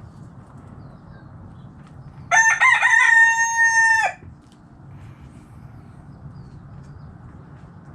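A rooster crowing once, a crow of just under two seconds that breaks up at the start, then holds a steady note and drops off at the end. It is heard over a low, steady background hum.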